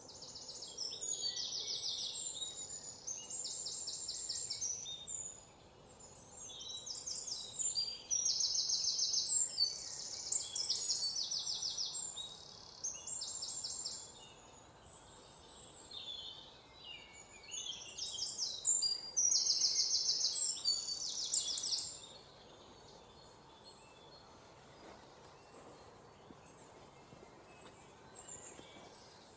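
Songbirds chirping and singing rapid trills of evenly repeated high notes, several overlapping at different pitches. About two-thirds of the way through the singing thins out to faint scattered chirps over a light background hiss.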